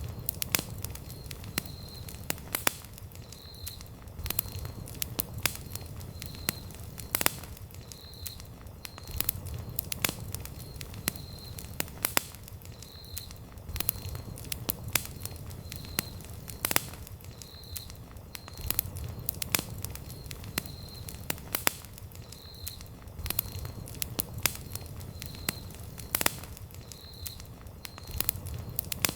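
Wood campfire burning, with sharp, irregular crackles and pops over a low, steady rumble.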